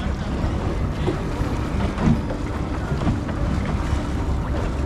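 Steady low rumble of motorboat engines on the water, with wind buffeting the microphone.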